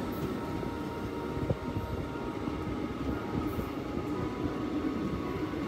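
Steady rumble of a moving passenger train heard from the open doorway of a coach: wheels running on the track, with a single small tick about a second and a half in.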